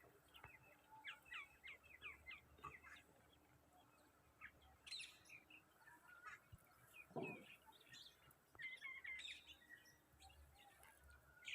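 Faint bird chirping: a quick run of short chirps in the first few seconds, then scattered chirps and calls.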